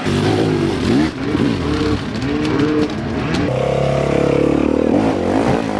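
Dirt bike engine revving in short repeated throttle blips, its pitch rising and falling over and over, then held at a steady higher rev for a second or two before easing off.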